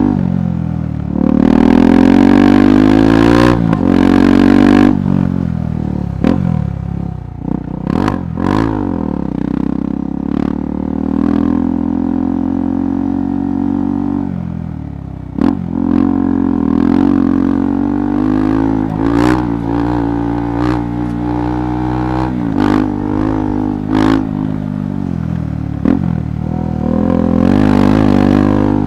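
KTM 390 Adventure's single-cylinder engine revving up and down in short bursts while riding a rough trail, with a strong rev in the first few seconds. Sharp knocks and clatter from the bike over rough ground come repeatedly through it.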